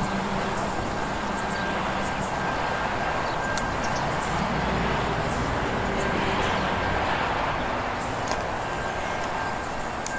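Diesel freight train heard from a distance as it approaches, led by a G-class diesel-electric locomotive: a steady engine and rolling noise.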